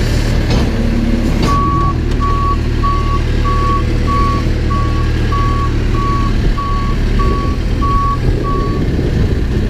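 Backhoe's reversing alarm beeping at a steady pace, about a dozen even beeps at one pitch that start about a second and a half in and stop near the end, over the steady running of its diesel engine. A few knocks sound before the beeping starts.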